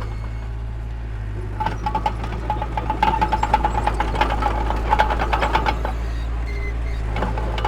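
Heavy diesel earthmoving machine running with a steady deep rumble. From about a second and a half in until near six seconds it is joined by a rapid run of metallic clanking with a ringing squeal.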